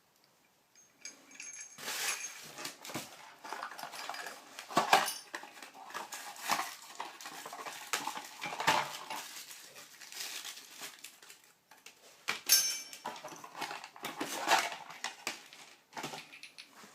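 Hard objects clattering and knocking irregularly, in two stretches with a short break a little past the middle.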